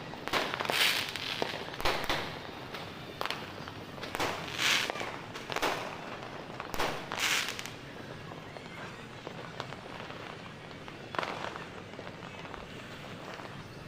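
New Year fireworks and firecrackers going off: a quick run of bangs with crackling, hissing tails, which thins out about halfway through to a single later burst over a steady background rumble of distant explosions.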